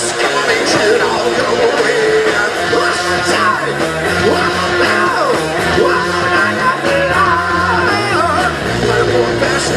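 Rock band playing live at full volume, electric guitar playing a lead line with bending, sliding notes over bass and drums.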